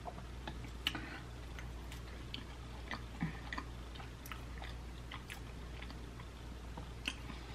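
Chewing a mouthful of macaroni and cheese, with scattered faint clicks and smacks of the mouth.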